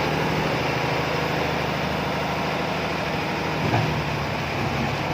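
Road construction machine's engine running steadily, with a brief knock about three and a half seconds in.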